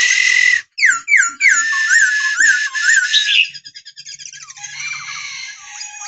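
Black-throated laughingthrush singing: a loud, varied run of whistled notes and up-and-down slurs, changing about halfway through to a faster, softer chattering trill.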